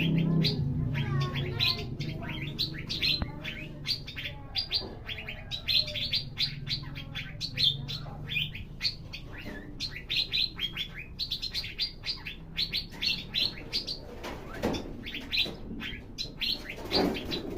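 Asian fairy-bluebird (cucak biru) singing energetically: a continuous run of short, high, sharp chirping notes delivered in quick succession.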